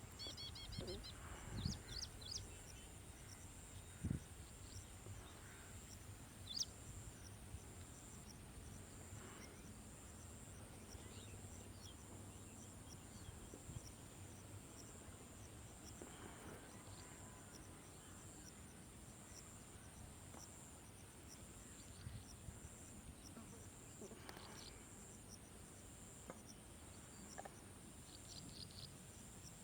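Faint outdoor ambience of insects trilling steadily at a high pitch, with occasional short bird chirps scattered through it.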